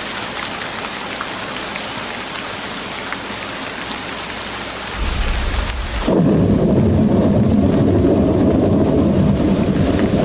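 Steady rain hiss. About five seconds in a low rumble starts under it, and about a second later the rain hiss cuts off abruptly, leaving a louder, deep, steady rumbling.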